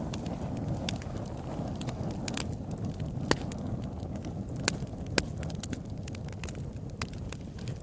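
Wood fire in a fireplace crackling: irregular sharp pops and snaps over a low, steady rumble of the flames, with a few louder pops in the middle.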